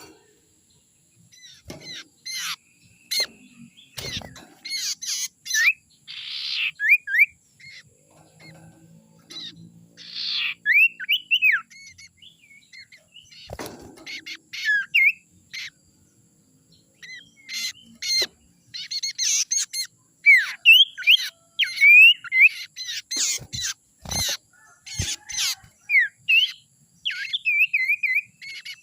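Sirtu (cipoh) bird calling: bursts of short chirps and quick sweeping whistles, separated by brief pauses, mixed with sharp clicks. It is a bird-call recording used as a lure sound (pancingan).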